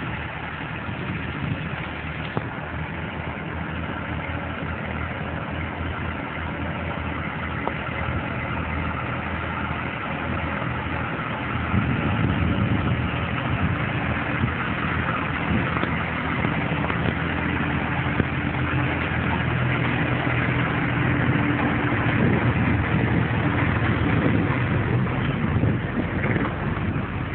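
Motor vehicle engine running steadily, growing louder about twelve seconds in.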